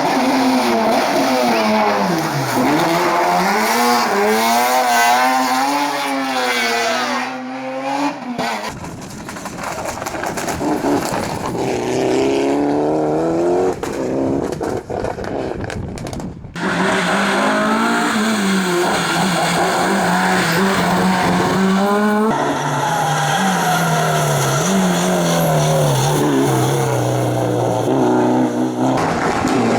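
Historic rally cars driven hard, engines revving up and dropping back again and again through gear changes, in several short passes cut one after another.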